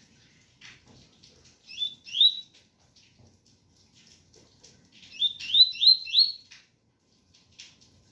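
Coleiro (double-collared seedeater) singing its 'tui tui' song of rising whistled notes: two notes about two seconds in, then a quick run of four near the middle of the clip.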